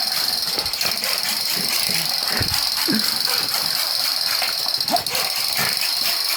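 Pinscher snapping its jaws, an irregular clacking of teeth, over a steady high hiss.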